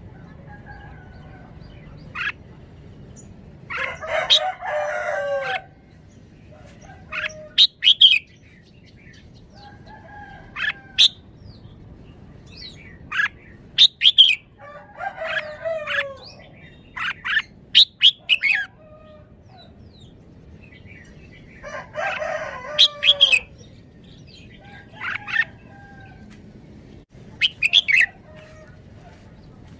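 Red-whiskered bulbul singing short, sharp whistled notes and phrases. A rooster crows about four times between them, each crow falling in pitch at its end.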